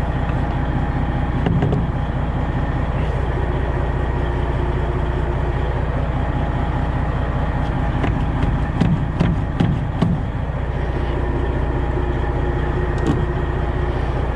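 Semi truck's diesel engine idling steadily, with a few short knocks about eight to ten seconds in.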